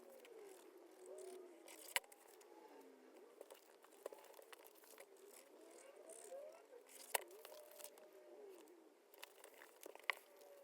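Quiet handling of paper pieces, with faint crinkling and a few sharp clicks, the loudest about two and seven seconds in.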